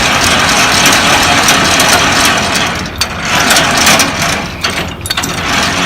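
Trailer landing gear being cranked down by hand, a continuous mechanical grinding and ratcheting with short breaks about three and five seconds in, over an idling truck engine.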